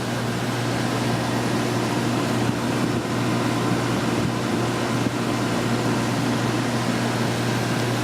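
WaterFurnace geothermal heat pump running: a steady hum with even blower and air noise.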